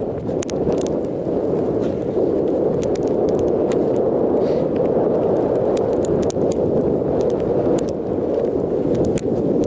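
Gale-force mountain wind buffeting the microphone as a loud, steady rumble, with scattered sharp clicks and taps throughout.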